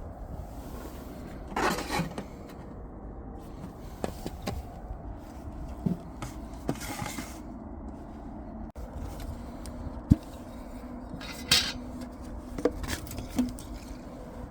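Scattered knocks, clinks and short scrapes of objects being handled, over a steady low background. The loudest is a sharp knock about ten seconds in, and there are short scraping bursts near the start, in the middle and late on.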